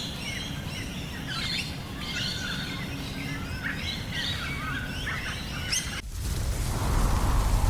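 Several birds chirping and trilling over a low steady background noise. About six seconds in the birdsong cuts off abruptly and is replaced by steady rain with a low rumble that grows louder.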